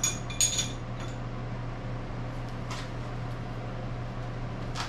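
Metal clinks of hand tools and parts against a milling machine: two sharp ringing ones in the first half second, a lighter one about three seconds in and another near the end, over a steady low hum.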